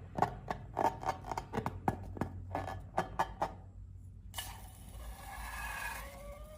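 Slime worked by hand, making a string of irregular sticky clicks and pops for about four seconds. After a short pause comes a hiss carrying a wavering squeal.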